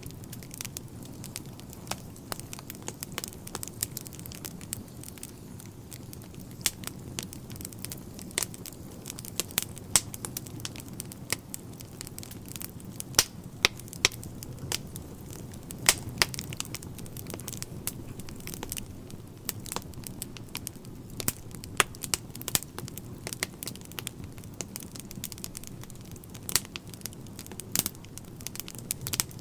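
Wood fire crackling in a fireplace: a steady low rumble of the flames with frequent irregular sharp pops and snaps from the burning logs.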